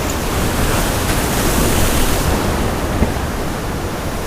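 Rough surf from a tropical-storm swell washing against a rock jetty, with wind on the microphone; the wash swells about a second in and eases slightly near the end. A single short knock about three seconds in.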